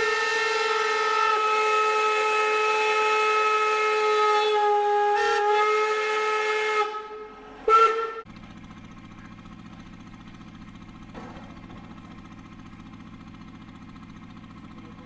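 Steam locomotive whistle blowing one long blast of several tones at once, lasting about seven seconds, then a short toot about eight seconds in. After that comes a quieter steady low engine hum.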